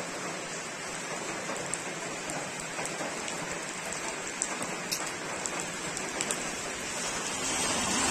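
Heavy rain falling steadily, with scattered single drops clicking close by; it grows a little louder near the end.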